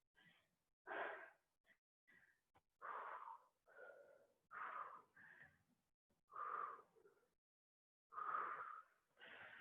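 A person's heavy breathing under exertion: faint, short, breathy exhalations about every second or two.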